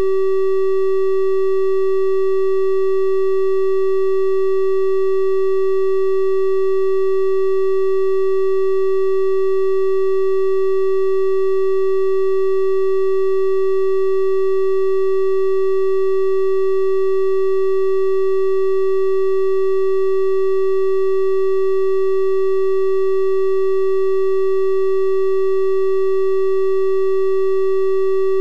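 Synthesized 384 Hz triangle-wave tone held steady and unbroken, a pure hum with faint higher overtones.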